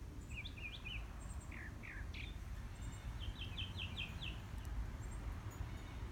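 Songbirds chirping: scattered short, quick notes, with a fast run of about six notes around three to four seconds in. A steady low rumble runs underneath.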